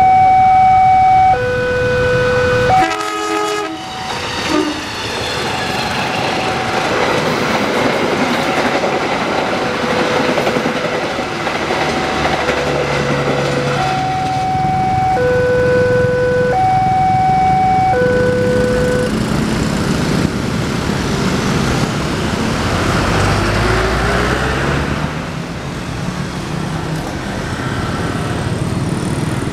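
A level-crossing warning alarm sounds in two alternating tones, each held a little over a second, while a passenger train rolls across the crossing with its wheels clattering over the rails. The alarm stops about two-thirds of the way through, and the train noise fades out.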